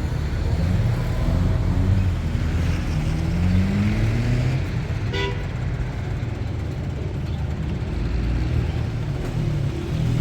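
Car engine running on the move, its pitch rising as it accelerates, with a short toot about five seconds in.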